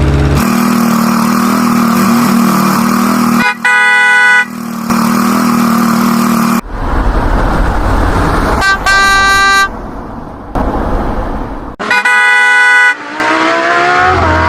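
Vehicle engines running, broken by three horn honks of about a second each, with a rising engine rev near the end.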